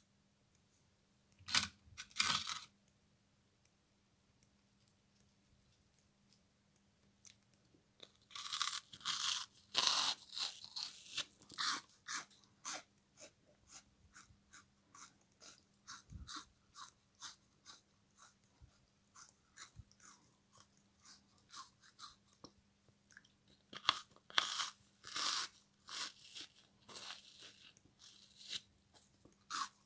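Frozen sponge soaked in lemon-kiwi syrup being bitten and chewed close to the microphone. Two crisp bites come near the start, then a pause of a few seconds, then steady rapid crunching chews from about eight seconds on, louder around ten seconds and again near twenty-five.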